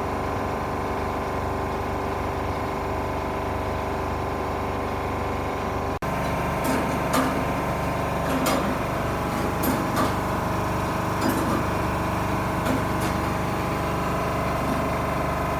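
Atlas Imperial marine diesel engine running steadily. About six seconds in, the sound drops out briefly and picks up again. After that, sharp metallic clicks and knocks come over the running engine at irregular intervals of a second or so.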